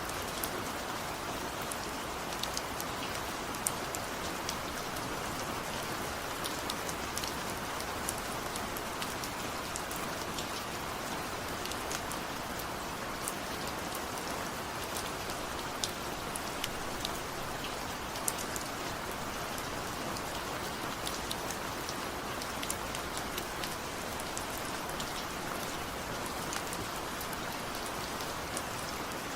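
Steady rain with scattered sharp drop ticks.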